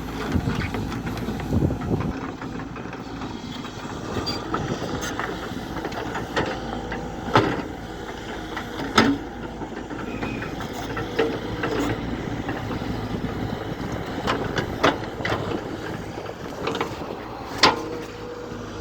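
Heavy machine's diesel engine running steadily, typical of a JCB 3DX backhoe loader, with several sharp metallic knocks scattered through it.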